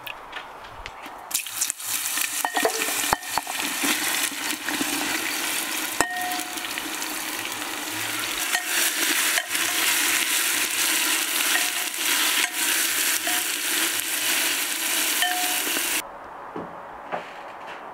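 Food frying in hot oil in a cooking pot, a loud steady sizzle stirred with a metal utensil that clinks and scrapes against the pot. The sizzle starts about a second in and cuts off suddenly near the end.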